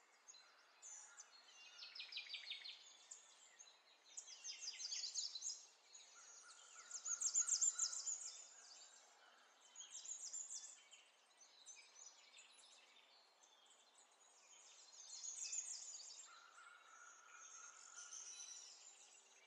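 Birds chirping: bursts of quick, high trills every second or two, with a couple of longer held whistles in between.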